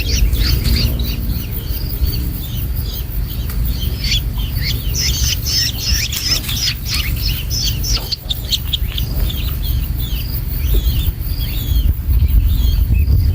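Long-tailed shrikes chirping in quick runs of short, downward-curving calls that are thickest in the first half and thin out towards the end, over a steady low rumble.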